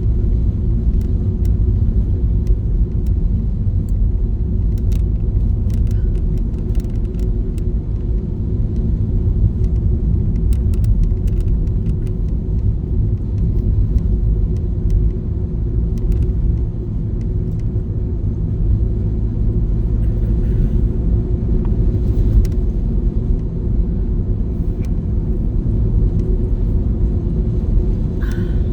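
Steady low road and engine rumble heard from inside a moving car's cabin, with faint scattered ticks over it.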